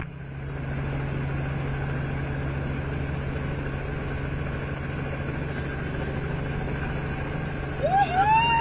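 Helicopter engine and rotor running steadily, heard from inside the cabin as a low drone with a fast, even pulsing. Near the end a loud high tone rises and holds.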